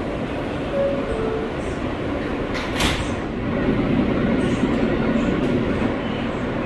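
R143 subway train with a steady low rumble. About a second in there is a short two-note falling chime, and near three seconds a brief sharp hiss; the rumble then grows louder.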